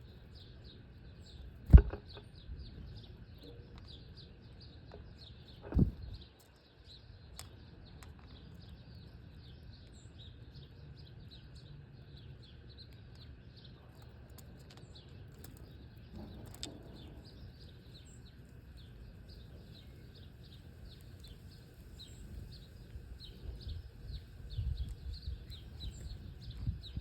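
A flock of small birds chirping continuously in rapid, overlapping high calls. Two loud thumps come about 2 and 6 seconds in, and an uneven low rumble builds near the end.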